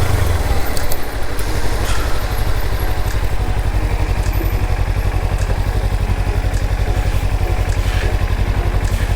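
Kawasaki Ninja 300's parallel-twin engine running steadily with an even low throb.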